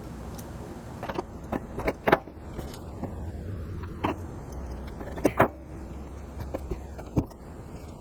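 Scattered sharp clicks and light metallic taps of small hand tools and hardware being handled at a workbench, at irregular intervals over a low steady hum.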